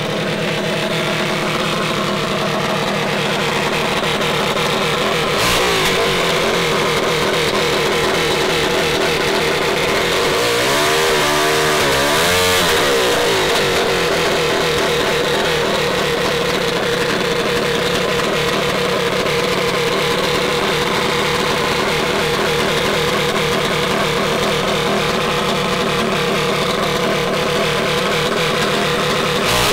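Mini bike small engines running steadily at a loud, even level, with one engine's pitch wavering up and down about ten to thirteen seconds in as it is revved or rides past.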